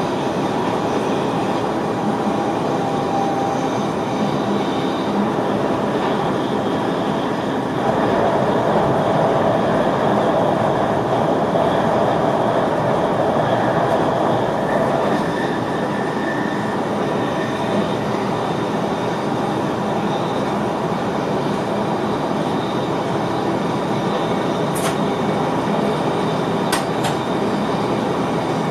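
NS VIRM double-deck electric train heard from the driver's cab while running along the line: a steady rolling and running noise that swells louder for several seconds from about eight seconds in, with a few sharp clicks near the end.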